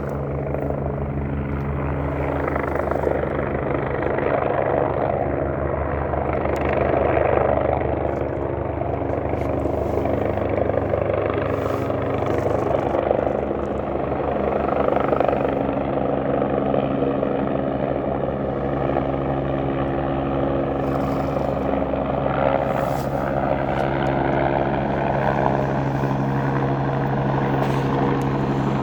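Helicopter running, its rotor blades beating fast and evenly over a steady engine tone.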